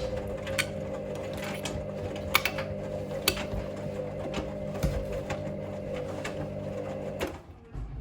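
Hoover Link washing machine's motor turning the drum during the main wash, a steady hum with scattered clicks from the drum. The motor cuts out abruptly near the end as the drum pauses between tumbles.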